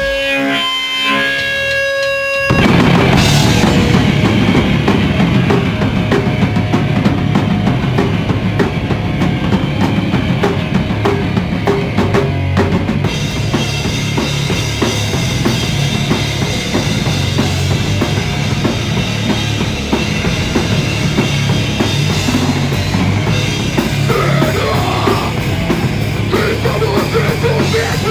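A punk rock band playing live and loud, drum kit pounding under the band, recorded on a phone. For about the first two and a half seconds a few ringing notes hang on, then the full band crashes back in.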